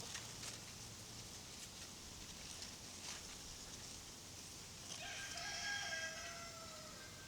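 A rooster crowing once, about five seconds in: one call of about two seconds that dips slightly in pitch towards its end.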